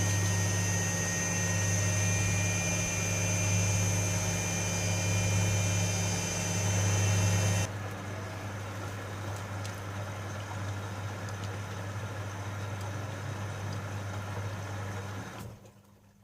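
Privileg Sensation 9245 washing machine running with a steady motor hum and whine. About halfway through, the whine cuts off abruptly, leaving a quieter hum, which stops near the end.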